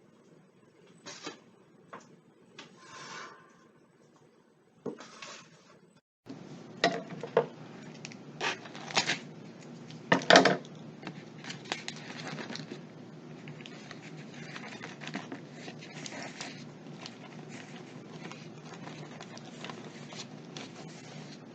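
Kitchen handling sounds as baked foil pouches are opened: rustling with scattered clinks and knocks, the loudest cluster of knocks about 7 to 10 seconds in, over a steady low background hum that starts about 6 seconds in.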